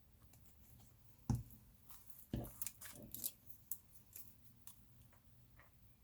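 Paper pieces and craft tools being handled on a tabletop: two sharp knocks about a second apart, then a quick run of small clicks and paper rustles.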